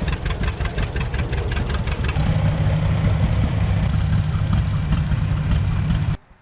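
Antique tractor engine running, with a regular beat of about five to six strokes a second. About two seconds in the engine grows louder and heavier, and near the end the sound cuts off suddenly.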